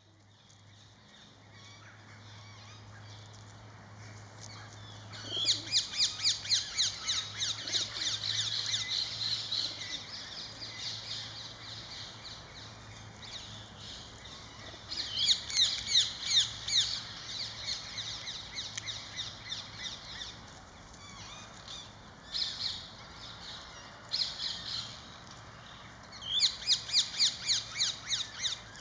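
Birds chirping, with three loud bursts of rapid, sharp, repeated calls at about five notes a second and quieter chirping in between.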